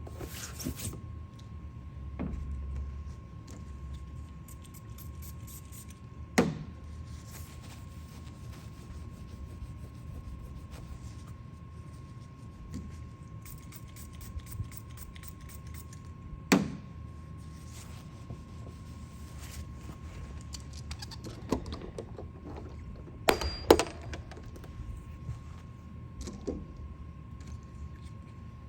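Paintless dent repair tools working a car roof panel: sharp knocks or snaps, one about six seconds in, another about ten seconds later and a quick double near the end, with a few lighter taps, over a steady faint high-pitched hum.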